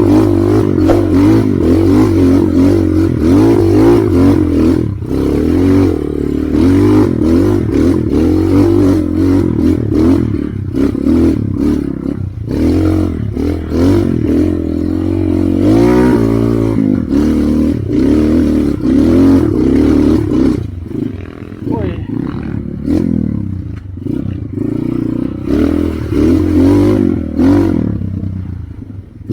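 Trail motorcycle engine revving up and down constantly under load on a rough climb, with clattering knocks mixed in.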